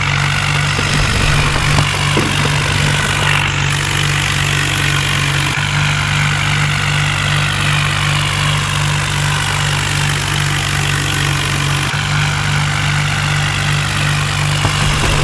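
John Deere diesel tractor engine running at a steady speed, a continuous low drone with two brief breaks about a third and four-fifths of the way through.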